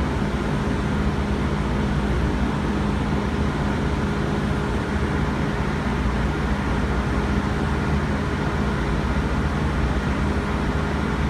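Steady hum and noise inside an R160B Siemens subway car, with a few fixed, unchanging tones and no pitch glides.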